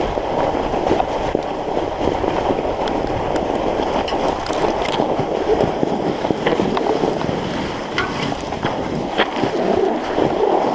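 Steady rushing noise of a fat bike being ridden over snow and ice: its 45NRTH Dillinger 5 studded tyres rolling and wind on the camera's microphone, with scattered small clicks and crunches.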